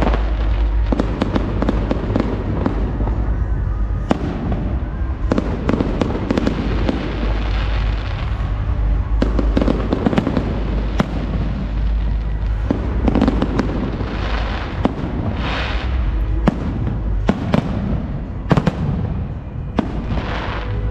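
Fireworks display: rapid sharp bangs and cracks over a continuous low rumble, with stretches of crackling fizz around two-thirds of the way through and near the end.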